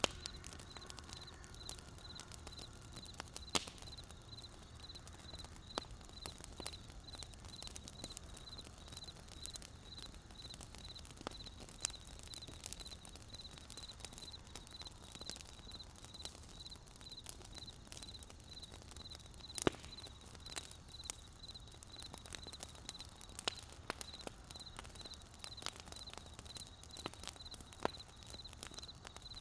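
Wood fire crackling, with sharp pops scattered through and the loudest about 3.5, 12 and 20 seconds in. Behind it, a high, even pulsing chirp repeats about one and a half times a second.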